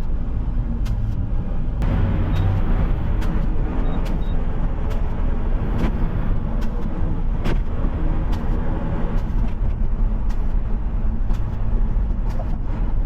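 Front-loader garbage truck driving, its diesel engine running steadily under road noise. Scattered light clicks and rattles sound throughout.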